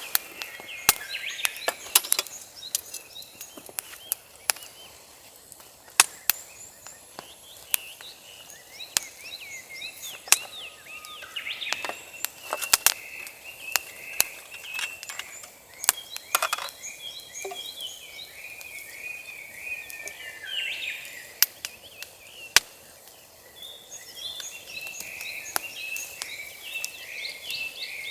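Birds singing in a steady stream of chirps and trills, over many sharp, irregular snaps and clicks.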